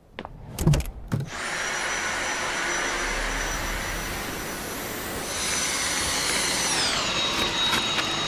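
A few clicks, then a cordless vacuum cleaner switching on about a second in and running steadily with a high motor whine. Near the end the whine steps down in pitch as the motor slows to a lower power setting.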